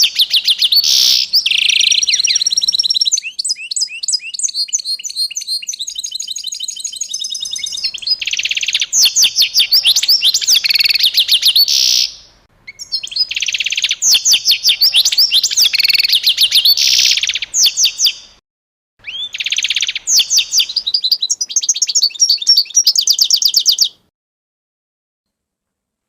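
Songbird singing long phrases of rapid, high chirps and trills, with a couple of short pauses; the song cuts off to silence about two seconds before the end.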